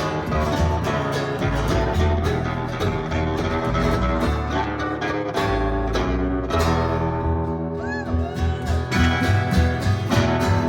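Live country band playing, with guitar to the fore over a steady bass and drum beat.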